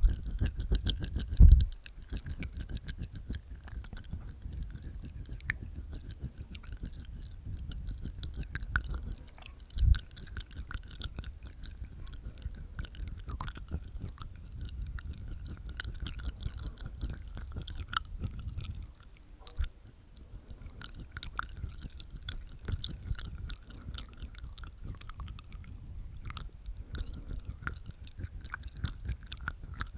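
Close-miked ASMR mouth sounds: wet tongue clicks and teeth tapping inside the mouth, a rapid, irregular stream of small clicks with a few low thumps.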